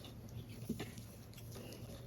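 Small handling sounds of paper-model assembly: light taps, rustles and scrapes of paper parts, with one sharper click about 0.7 s in, over a steady low hum.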